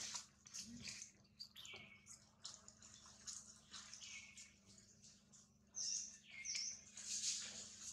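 Faint high bird chirps, each falling quickly in pitch, heard several times, with two close together near the end, over scattered light clicks and rustles.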